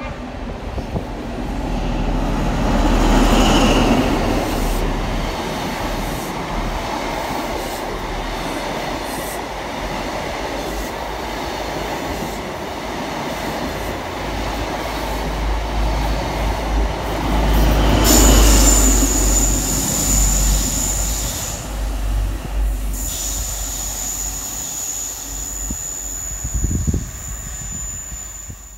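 Midland Pullman diesel high-speed train running along the platform, its engine and wheels on the rails swelling louder twice as it comes past. From about two-thirds of the way in a steady high-pitched squeal sits over the rumble.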